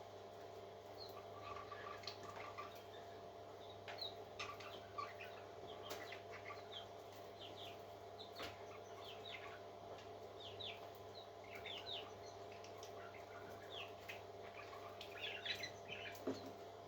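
Parrot chicks cheeping: short, high, falling peeps in scattered clusters, busiest near the end, over a steady low hum.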